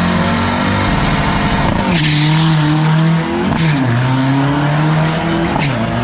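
Turbo-diesel drag-racing truck making a single pass under full power. Its engine note holds steady and drops sharply at gear changes about two, three and a half, and five and a half seconds in.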